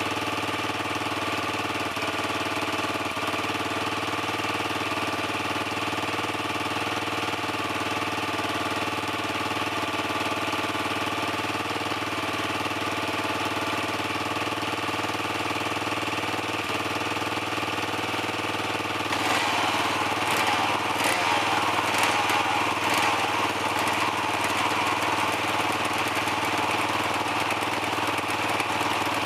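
Dirt bike engine idling steadily. About two-thirds of the way through it gets louder and rougher, with a few sharp crackles.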